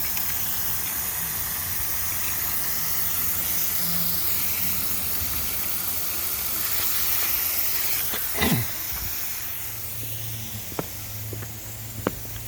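Steady hiss of irrigation water spraying while a sprinkler zone runs, dropping lower about nine seconds in, followed by a few light clicks.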